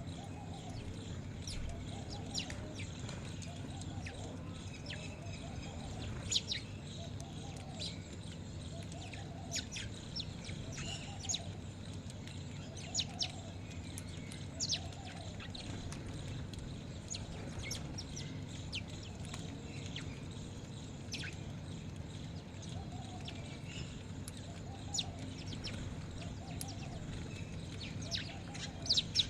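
Mixed flock of caged birds calling, with many short, sharp chirps scattered irregularly throughout. A soft low call repeats about once a second, over a steady low hum.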